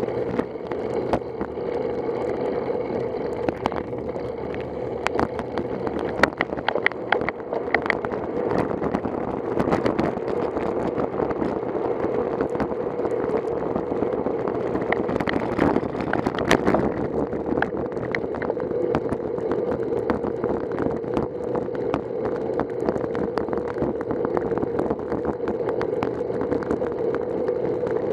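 Steady wind and road noise on a bicycle-mounted camera while riding, with scattered short clicks and rattles, thickest about a third of the way in and again past halfway.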